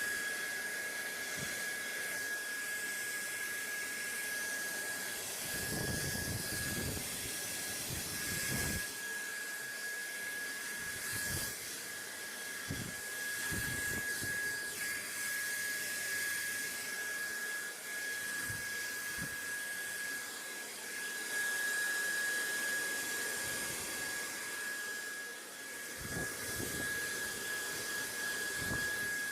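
Steady white-noise hiss with a thin, steady high whine running through it and occasional soft low rumbles.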